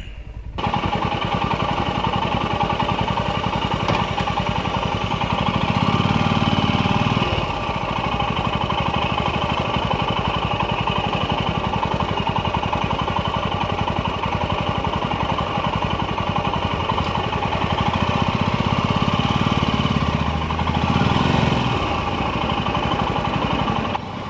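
Royal Enfield Himalayan's single-cylinder motorcycle engine running on the road, heard from the moving bike. It swells louder for a second or two about six seconds in and again around twenty seconds, then cuts off abruptly just before the end.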